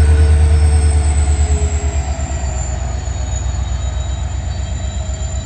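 WDP4 (EMD) diesel locomotive's two-stroke 16-cylinder engine humming, with a rapid low throb and a thin high whine that ease off and get quieter over the first couple of seconds, then hold steady.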